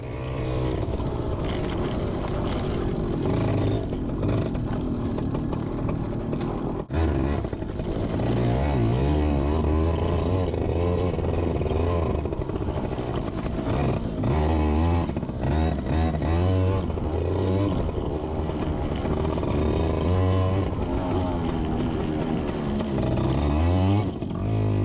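Yamaha PW80's small two-stroke single-cylinder engine revving up and down while being ridden, its pitch rising and falling repeatedly with the throttle.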